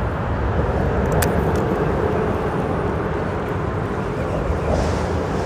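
Steady roar of freeway traffic on the bridge overhead, blended with the rush of the creek's current.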